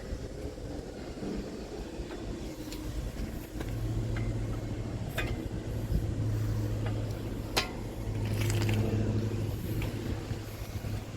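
Faresin telescopic loader's engine running, its hum growing stronger about four seconds in and easing near the end, with a few sharp clanks.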